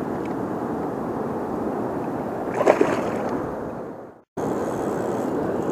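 Steady rushing of river water. A brief louder sound comes a little past the middle, and the sound fades out and drops away for a moment about four seconds in before the water resumes.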